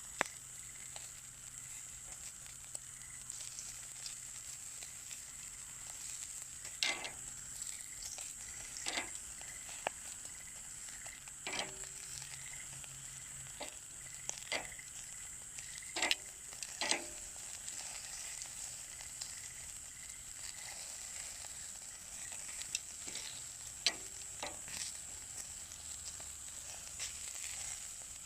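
Meat sizzling on a grill over a wood fire in a Coleman Fire Disc fire pit: a steady high hiss with sharp pops and crackles now and then.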